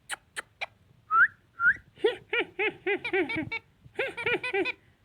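Ringneck parakeet vocalising: a few sharp clicks, two short rising whistles about a second in, then fast runs of short chattering calls.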